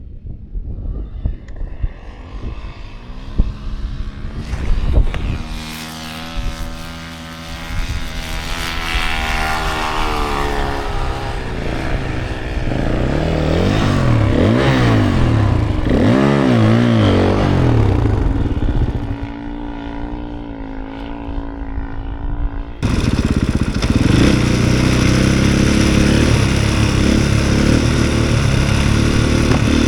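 Single-cylinder 450 cc four-stroke snowbike engines running, the revs rising and falling again and again as the bikes climb and ride through snow. About two-thirds of the way in, the sound changes abruptly to a louder, steady engine run.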